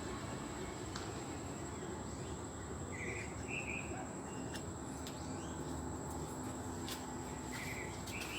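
Quiet outdoor background: a few short bird chirps over a steady low hum and a thin, steady high-pitched whine.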